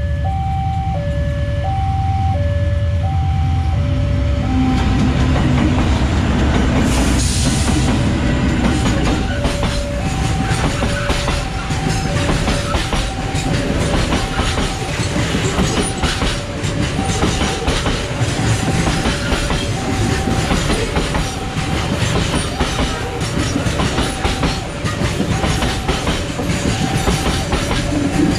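A long coal train passes a level crossing while the crossing's electronic warning signal sounds an alternating two-note tone. The double-headed diesel locomotives rumble for the first few seconds. After that, a steady clatter comes from the open coal wagons' wheels running over the rails.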